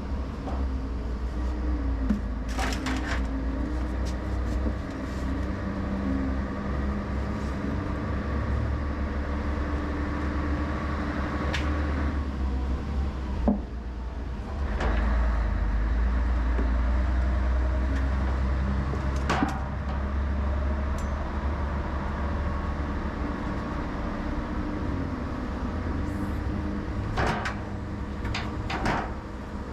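An engine running with a steady low rumble, louder from about halfway through, with occasional sharp clanks and knocks.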